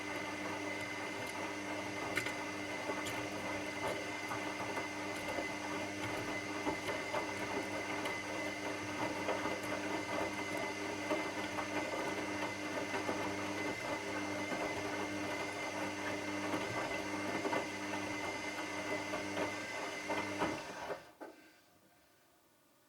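Washing machine running: a steady motor hum and whine with scattered light clicks, which stops suddenly about 21 seconds in, leaving near silence.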